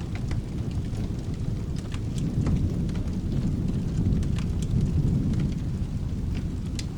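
Low rolling thunder that swells through the middle and eases off near the end, over steady rain, with scattered sharp pops and crackles from a fireplace.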